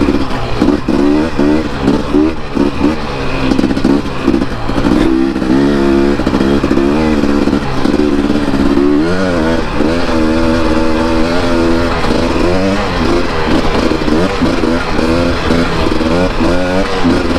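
Dirt bike engine being ridden, its pitch rising and falling over and over as the throttle is opened and closed and it shifts through the gears.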